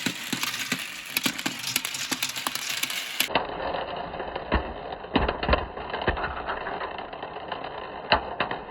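Many marbles rolling and clattering down a plastic marble-run track, a dense rattle of rapid clicks. The sound changes abruptly about three seconds in.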